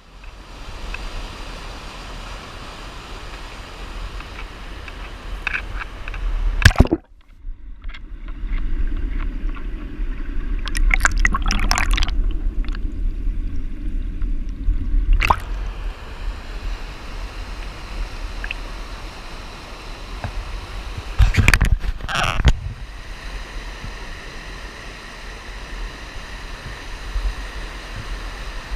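Creek water running steadily, broken by a few sharp knocks about a quarter of the way in, near the middle and about three-quarters of the way through.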